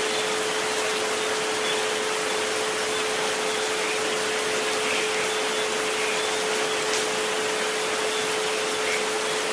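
Steady rain hiss with a continuous pure tone held underneath, the 432 Hz relaxation frequency, unchanging throughout.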